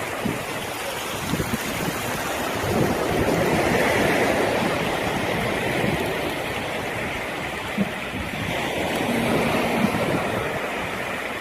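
Sea surf washing onto the beach, with wind buffeting the microphone; the wash swells up about three seconds in.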